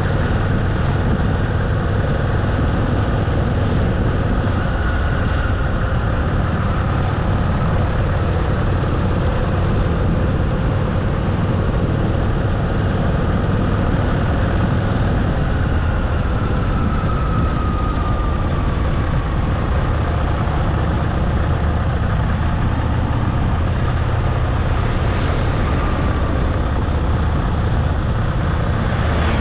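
Motorcycle riding at a steady pace: a constant low engine drone under steady rushing wind and road noise, with no change in revs.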